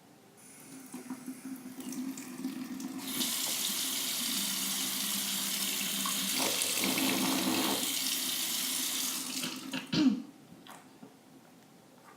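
Bathroom tap running into a sink: a steady rush of water that starts a few seconds in and stops abruptly after about six seconds, followed by a single sharp knock.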